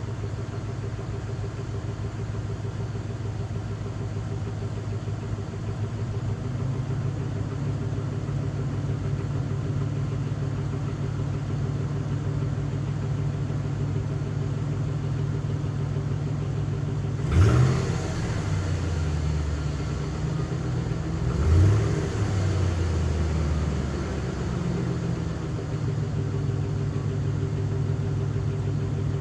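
Truck engine running steadily while driving, revving up sharply twice, about four seconds apart, past the middle.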